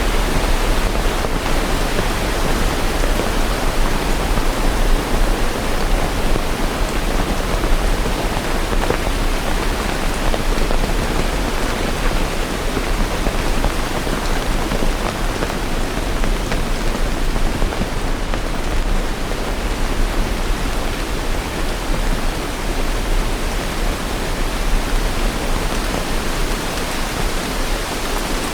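Steady rain falling, a continuous even hiss and patter with no thunder.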